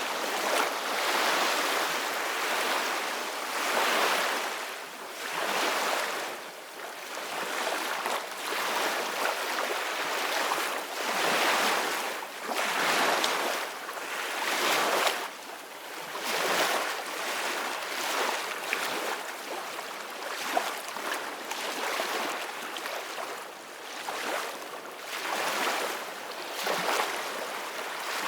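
Sea waves splashing and washing, the rush of water swelling and falling every couple of seconds.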